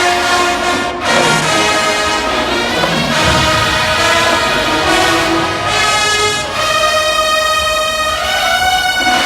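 A marching band's brass section playing loud, held chords, with trumpets and trombones prominent, and a short break in the sound about a second in.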